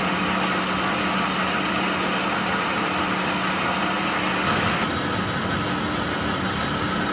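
A machine running steadily, with a constant hum and a higher steady whine.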